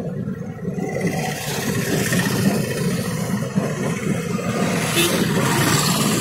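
Passenger train coaches rolling past on the track: a steady rumble and clatter of wheels on rail that grows gradually louder, with a hiss joining in about a second in.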